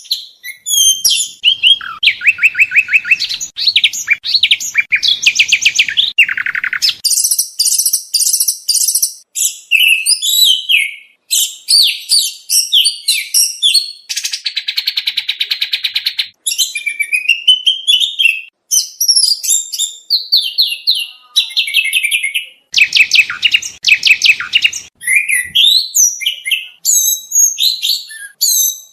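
Oriental magpie-robin (kacer) singing a long, varied song of rapid trills, fast repeated notes and whistled glides, changing phrase every second or two, with a buzzy rattling phrase about halfway through. It is a mastering recording rich in song 'materi', the varied borrowed phrases that contest kacer are trained on.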